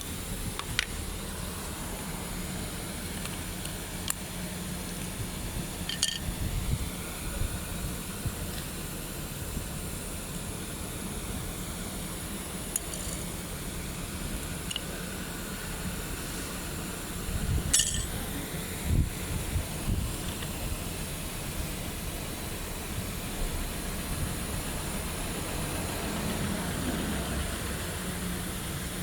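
Tools and metal parts clinking now and then, with a few dull thumps, over a steady low hum.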